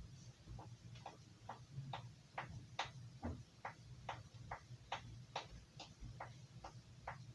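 Carving knife blade being stroked repeatedly across a sharpener, a short tick at each stroke, a little over two strokes a second, as the blade is given a set of twenty strokes on one side.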